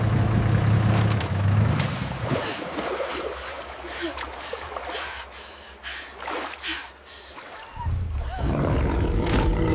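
Water splashing and churning around a boat, with a deep rumble at the start that comes back about eight seconds in.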